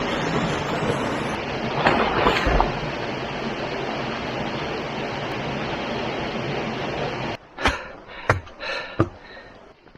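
Rushing water from a stream's swimming hole, a steady roar that swells briefly about two seconds in. It cuts off suddenly a little after seven seconds and gives way to a few sharp taps.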